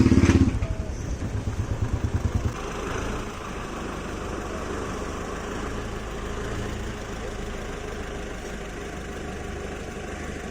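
A vehicle engine running close by, loud with a fast regular beat, cutting out about two and a half seconds in; a steadier, quieter engine rumble goes on after it.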